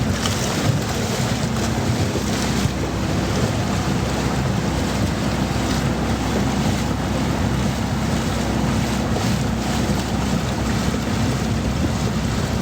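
A river raft's motor running steadily under rushing water and wind buffeting the microphone.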